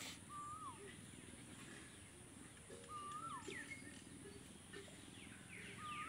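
Faint bird call: a short whistled note that holds level and then drops, repeated three times about three seconds apart, with a few fainter high chirps over a low background murmur.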